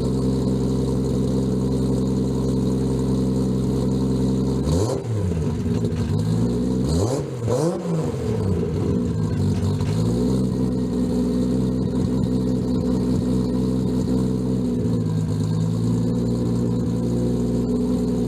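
Toyota Supra engine idling steadily, blipped by the throttle: a rev about five seconds in, two quick revs a couple of seconds later, and a few smaller blips after that, each time the pitch rising and falling back to idle.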